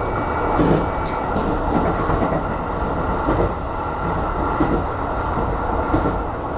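Aonami Line 1000-series electric train running, heard from inside: steady rolling and running noise with a few faint clicks from the rails.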